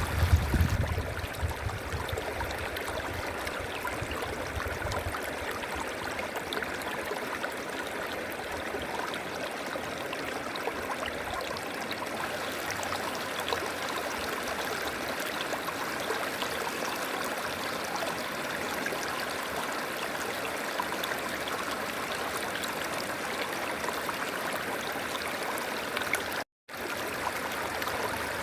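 River water flowing steadily, an even rushing sound, with a low rumble underneath for the first few seconds. The sound cuts out completely for a moment near the end.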